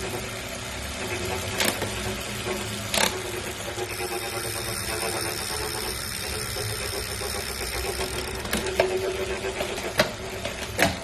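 Wahoo Kickr V5 direct-drive smart trainer running with a grinding noise, a fault in a brand-new unit. A steady mechanical hum with a few sharp clicks, and a high whine joining in from about four seconds to past eight seconds in.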